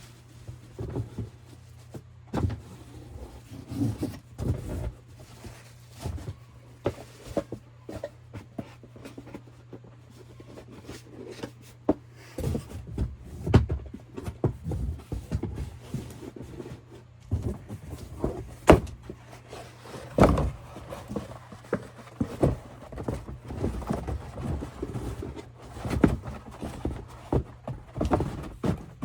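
Handling noise as a portable car cleaner and its packaging are unboxed: irregular knocks, clicks and rustles of plastic and cardboard, some sharper than others, over a faint steady hum.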